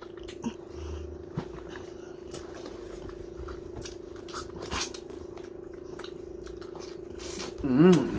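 Chewing and mouth noises of fast eating: scattered short smacks and clicks over a steady background hum. Near the end comes a brief vocal sound with a wavering pitch, the loudest moment.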